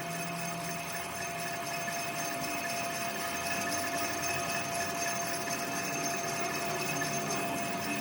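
A workshop machine running steadily with a constant whine.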